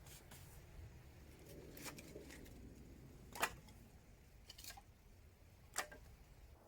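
Wood fire crackling: a few sharp, isolated pops, the loudest about halfway through, over a faint low rumble.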